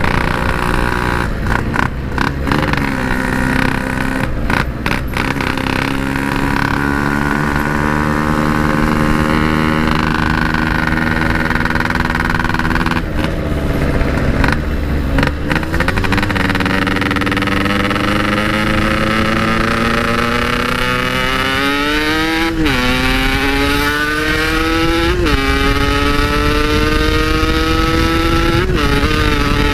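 Yamaha RX-King's single-cylinder two-stroke engine running through a Packing Power aftermarket exhaust while riding. It holds a fairly steady pitch at first, then climbs as the bike accelerates, with three upshifts, each a quick drop in pitch, in the last eight seconds.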